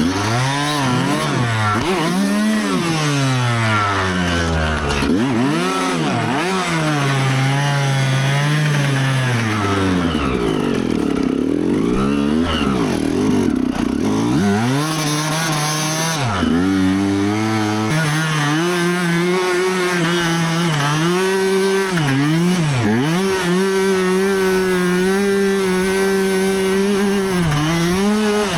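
Dirt bike engine under way, revving up and dropping back again and again as the rider works the throttle and gears, then holding a steadier high pitch with short dips after about eighteen seconds.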